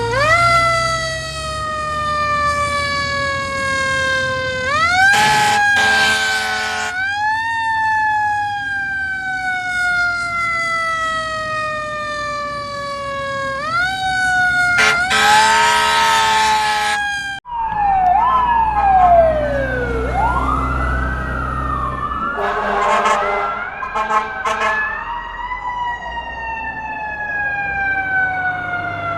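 Fire truck siren wailing, each cycle a quick rise and a slow fall about every five seconds, twice broken by a horn blast of about two seconds. After a cut about 17 seconds in, several sirens wail and yelp over each other, with another horn blast, before a single slow falling wail near the end.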